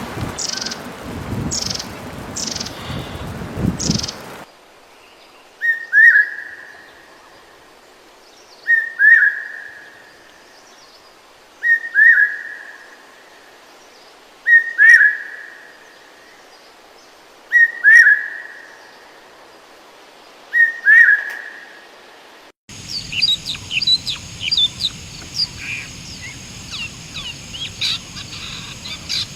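Songbirds calling, in three spliced recordings: first calls over a rushing noise, then one bird repeating a short, sharp call six times about every three seconds, then many small birds chirping together over a steady high hiss near the end.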